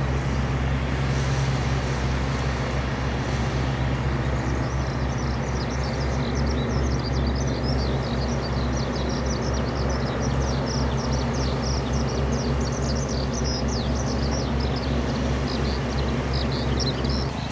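Farm tractor engine running steadily as it tills a rice paddy, a low drone. From about four seconds in, many quick high chirps sound over it.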